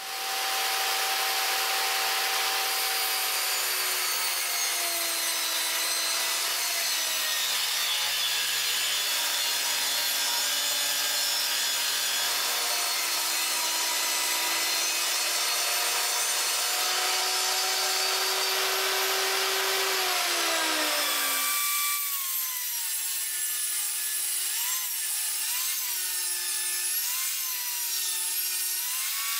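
Power saw cutting wood, a loud steady cutting noise with a motor whine that sags in pitch under load. About 22 s in, the cutting noise drops away and a wavering whine continues.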